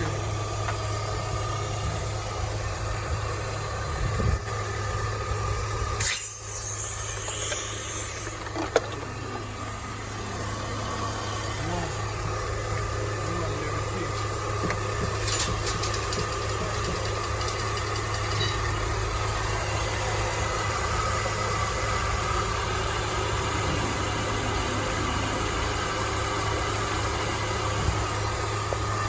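2005 BMW X5 engine idling steadily with the A/C running on a newly replaced compressor bearing, no bearing noise left. A sharp knock about six seconds in and a short click a couple of seconds later.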